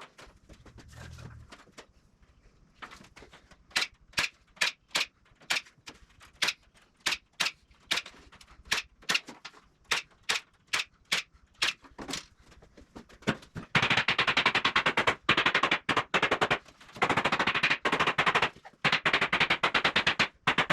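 Construction tool work: a run of sharp single clicks, roughly two or three a second, then from about two-thirds of the way in, loud rapid clattering in bursts of one to three seconds with short gaps.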